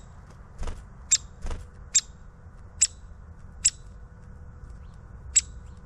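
Downy woodpecker calling: five short, sharp, high-pitched notes spaced about a second apart, with two soft rustles near the start.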